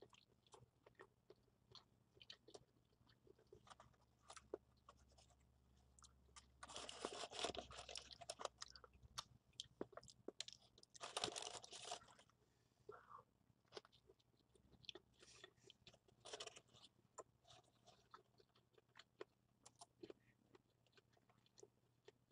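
A person eating a burger: quiet chewing with many small clicks of the mouth, and two louder crunching stretches, one about seven seconds in lasting a couple of seconds and a shorter one about eleven seconds in.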